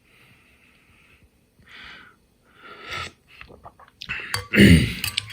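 A man blowing on and slurping hot broth to taste it: three breathy hisses, then small clicks and a short, louder vocal sound near the end.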